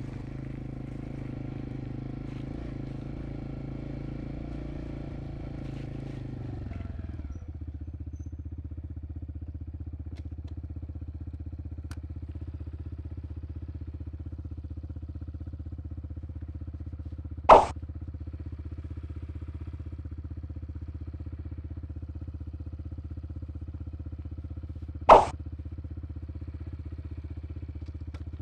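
Dirt bike engine idling steadily, settling to a lower, slower idle about seven seconds in. Two sharp clicks stand out, the loudest sounds here, one past the middle and one near the end.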